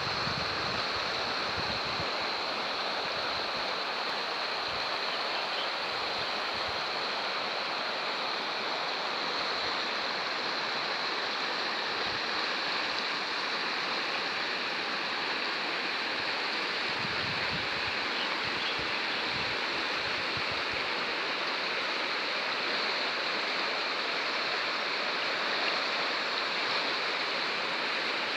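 Oum Er-Rbia river water rushing steadily, a constant stream-and-cascade sound, with now and then a low rumble of wind on the microphone.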